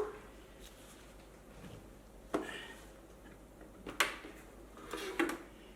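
A handful of sharp knocks and clunks, a second or so apart, as the electric unicycle's wheel with its new tyre is worked into the unicycle's housing.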